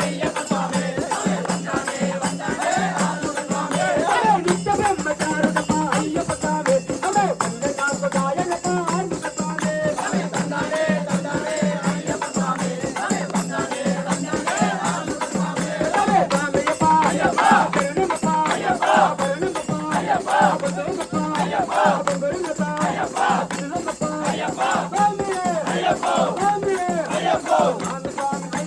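Devotional singing, a group of voices chanting a bhajan, over steady rattling hand percussion that keeps a continuous beat.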